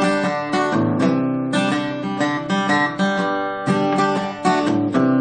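Background music: strummed acoustic guitar playing chords, an instrumental break between sung lines.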